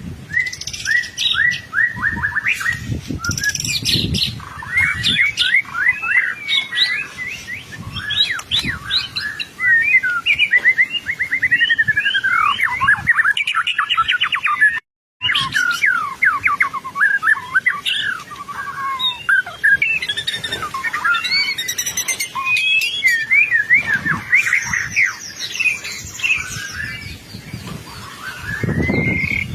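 White-rumped shama in full song: a fast, varied, unbroken stream of whistles, trills and rapidly repeated notes, broken by a very brief gap about halfway through.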